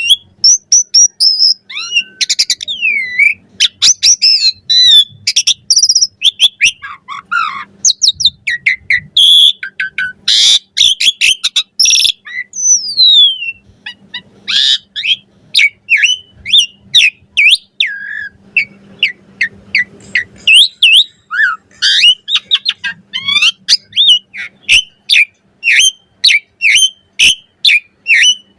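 Asian pied starling singing a long, varied chattering song of quick whistled notes, rising and falling glides and a few harsh rasping calls around the middle.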